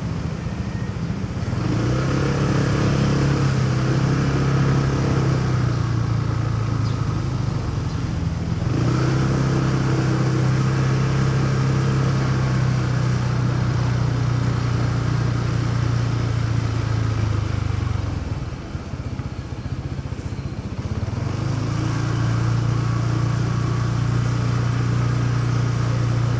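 Motorcycle engine running at a steady note while riding, over road and traffic noise. The engine note breaks briefly about a third of the way in, and fades for a few seconds about three-quarters through before it picks up again.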